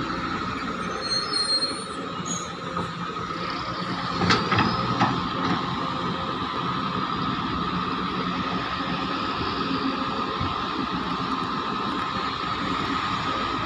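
Heavy excavator working: a continuous engine and hydraulic drone with a steady high whine over it, and two sharp knocks about four to five seconds in.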